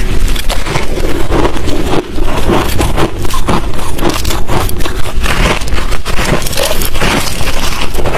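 Hard crushed ice and shaved-ice chunks being chewed close to the microphone: loud, dense, irregular crunching, several crunches a second, with a short lull about two seconds in.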